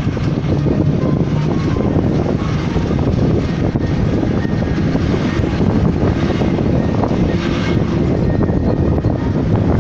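Truck engine running steadily with a loud, low, continuous rumble.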